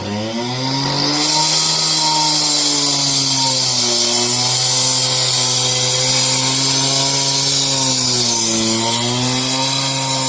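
A power tool running under load, its motor pitch sagging and recovering several times as it cuts, with a loud high hiss of cutting throughout.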